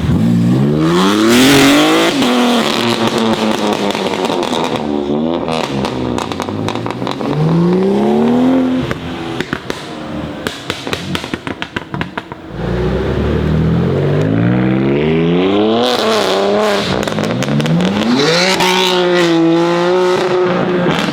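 BMW M3 G80's twin-turbo straight-six with an aftermarket exhaust, accelerating hard several times, its note climbing steeply with each run. A rapid string of crackles and pops on lift-off comes about halfway through.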